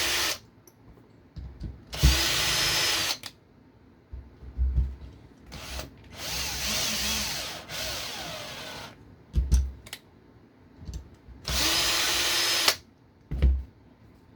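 Small electric power screwdriver running in four short bursts, the third about three seconds long, turning small machine screws into an RC car chassis. A few light knocks of parts being handled come between the runs.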